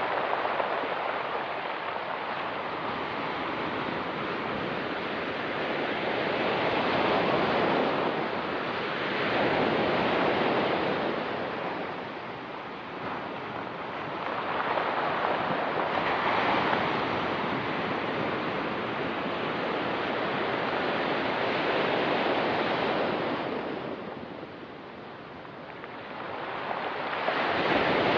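Ocean surf breaking and washing on a rocky beach, swelling and easing every few seconds as each wave comes in.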